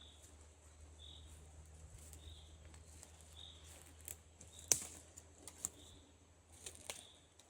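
Faint forest ambience: a bird repeats a short high note about once a second, and a few sharp cracks come in the second half, the loudest about halfway through.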